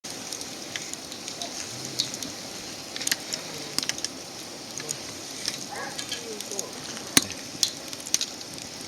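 Wood fire burning with a steady hiss and irregular crackles and sharp pops, the loudest pop about seven seconds in. Faint voices are heard in the background.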